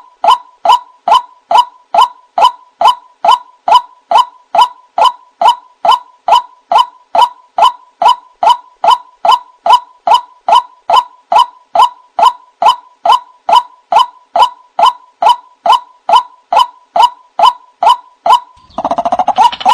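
White-breasted waterhen calling: a long run of short notes at one pitch, evenly spaced at about two to three a second. Near the end a harsher, denser chattering passage joins in.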